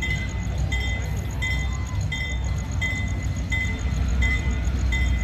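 Approaching locomotive's engine running with a steady low rumble that grows a little louder near the end, over an evenly repeating bell-like ding about two and a half times a second.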